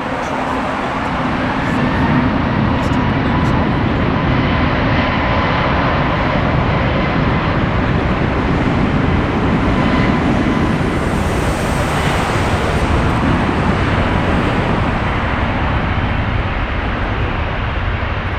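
Jet airliner's engines running as it passes: a loud, steady rush of noise with a faint high whine, swelling a couple of seconds in and easing slightly toward the end.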